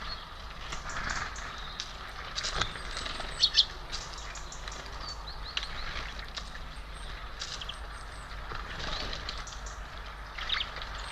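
Small birds at a feeder giving short, scattered chirps and calls, over a steady low background rumble.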